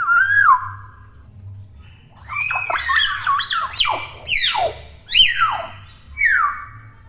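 Young hill myna calling: a gliding whistle, a pause of about a second, then a rapid run of whistles and harsh squawks that swoop up and down in pitch, and a falling whistle near the end.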